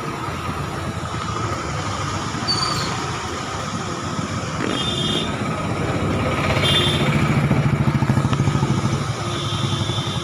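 Steady motor-vehicle noise that swells for a few seconds after the middle, as if a vehicle passes close, with a few short high beeps.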